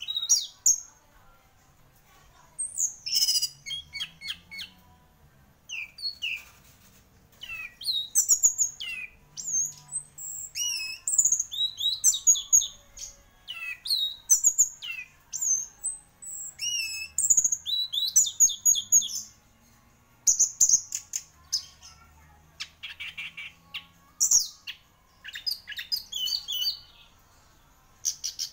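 Orange-headed thrush singing: a long string of short, varied whistled phrases with brief pauses between them, some phrases broken into rapid rattling trills.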